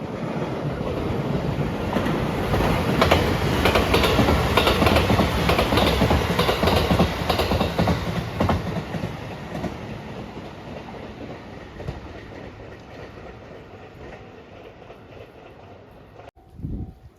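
Passenger train passing close by, its wheels clacking over the rail joints. The sound builds over a couple of seconds, stays loud for several seconds with the clacks, then fades steadily as the train moves away.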